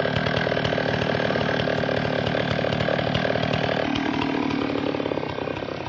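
A chainsaw-type small engine running with a rapid rattle, its pitch shifting about four seconds in.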